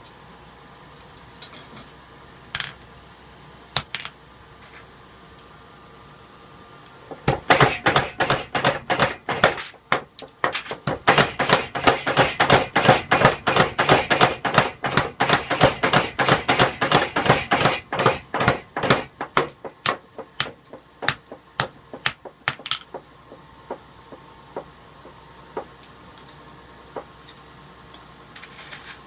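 Rapid hammer blows on metal in forging, about four or five a second for some fifteen seconds, each with a short ring, thinning out and stopping near the end; a few scattered lighter knocks before and after.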